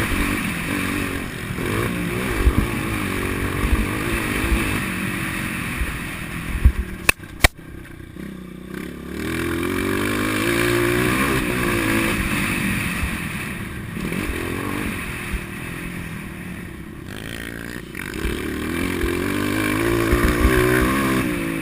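Motocross bike engine revving up and falling back over and over as it is ridden, with thumps and clatter. Two sharp knocks come about seven seconds in, and the engine drops off briefly twice.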